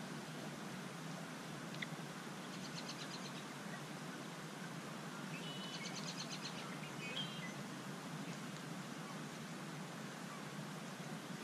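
Songbird chirping in two short bursts of quick high notes, about two and a half seconds in and again around six seconds, over a steady outdoor hiss.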